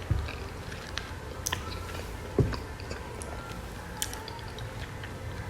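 A person chewing food while eating, with scattered small clicks and two low thumps, one right at the start and one a little over two seconds in.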